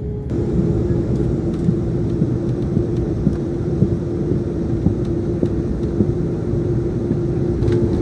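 Airliner cabin noise: the jet engines running with a steady hum over a low rumble, with a few faint knocks.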